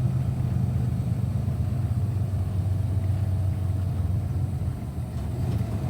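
Semi-truck's engine and road noise making a steady low drone while driving.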